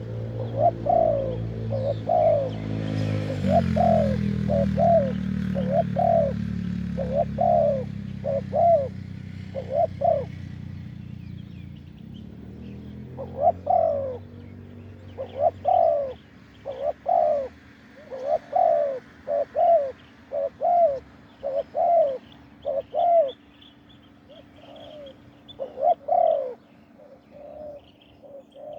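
Spotted doves cooing, a run of short, arched coo notes given in repeated phrases, with more than one bird calling. Faint chirps of small birds are heard behind them.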